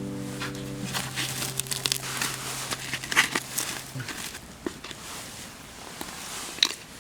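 Irregular light crackles and crinkles. The last held notes of background music die away about halfway through.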